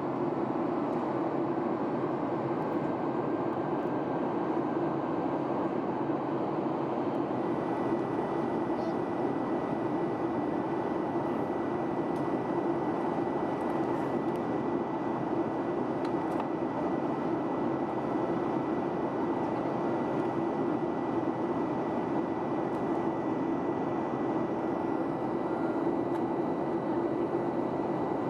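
Steady cabin noise inside a Boeing 737-800 in flight: an even rush of airflow and engine noise. A faint steady high tone joins about a quarter of the way in.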